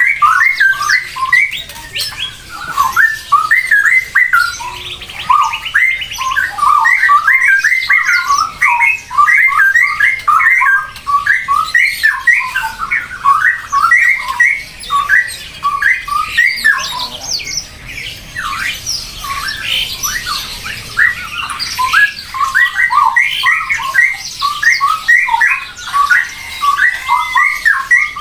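Birds calling in a dense, unbroken chatter of short, quick calls overlapping one another.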